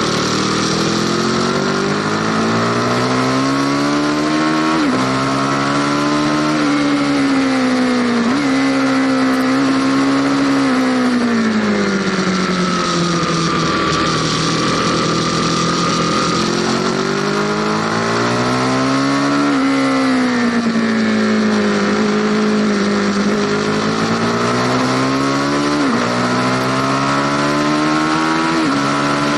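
Aprilia Tuono Factory motorcycle engine heard on board while riding. The engine pitch climbs under acceleration, drops abruptly at several gear changes and falls away smoothly as the bike slows, over a steady rush of wind.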